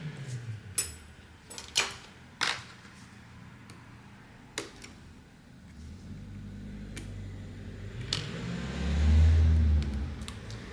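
Scattered sharp clicks and taps of small repair tools on a phone, about half a dozen, over a low hum that swells to its loudest near the end.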